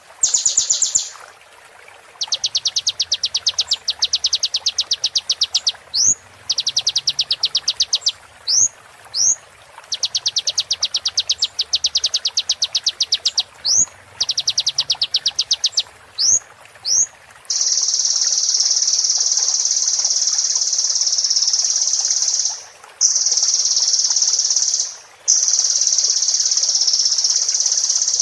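Sunbird song (the bird Indonesian keepers call 'kolibri'): rapid high trills in bursts of about two seconds, with quick rising whistled notes between them. From about two-thirds of the way through, the trill runs on almost unbroken, with two short breaks.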